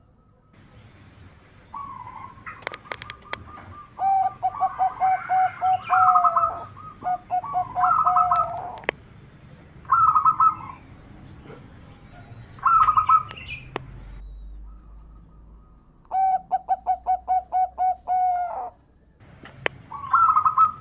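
Zebra dove (perkutut) song: repeated phrases of rapid, evenly spaced staccato cooing notes, each phrase a quick trill of about a dozen notes, with short pauses between phrases. A few sharp clicks come in between.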